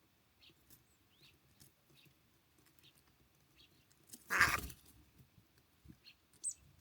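Small birds at a feeder giving faint, short high chirps. About four and a half seconds in comes a loud, brief noisy burst, and a sharper high note follows near the end.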